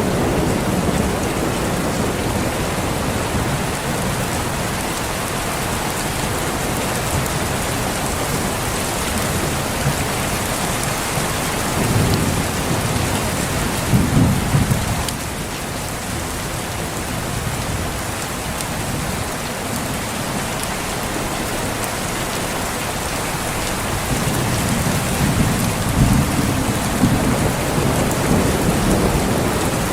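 Steady rain falling, with low rolls of thunder about halfway through and again near the end.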